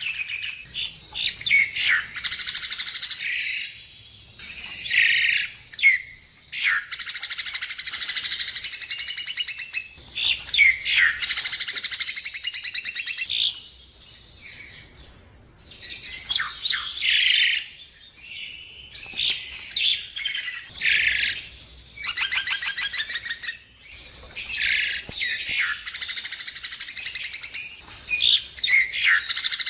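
Black-winged starling (jalak kebo) singing in long bursts of chattering, fast rattling trills and whistled notes, with short pauses between phrases.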